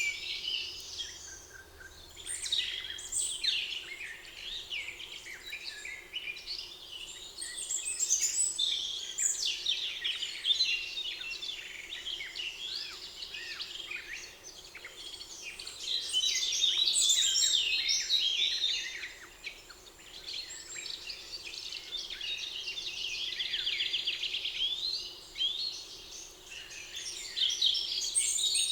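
Several songbirds singing at once, an almost unbroken chorus of chirps and trills, with a faint steady hum underneath.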